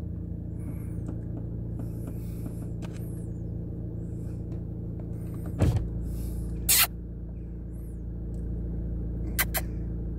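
Car engine idling steadily, heard from inside the car's cabin. A few short knocks and clicks cut through it, about halfway through and twice near the end.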